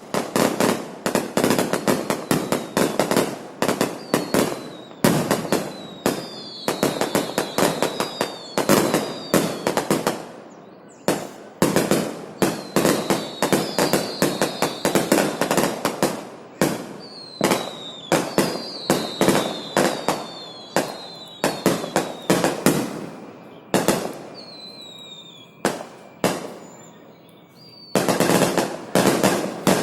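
A string of firecrackers going off in rapid volleys of sharp bangs that sound much like gunfire. The volleys come in clusters with short gaps, ease into a lull of several seconds about two-thirds of the way through, and then start up densely again near the end.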